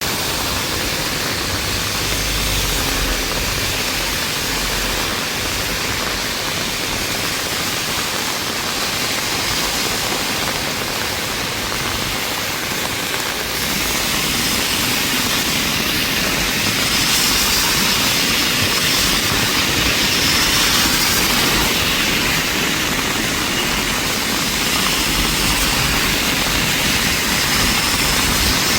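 Steady rain falling, an even hiss that grows a little louder about halfway through.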